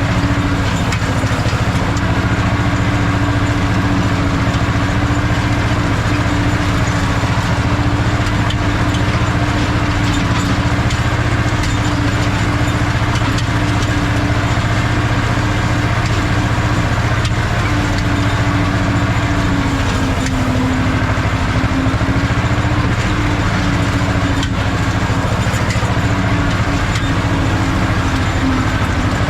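Ursus C-330 tractor's two-cylinder diesel engine running steadily, with a brief dip in pitch about two-thirds of the way through.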